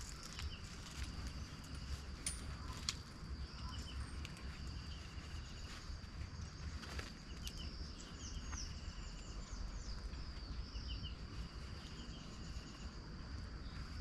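Forest ambience: a steady high-pitched insect drone, short repeated trills, and a few quick falling bird chirps about two-thirds of the way in. Occasional sharp clicks and a low rumble sit underneath.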